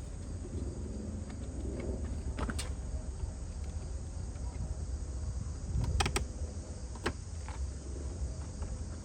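A few sharp clicks and snaps as a cover is fitted back into place, over a steady low rumble.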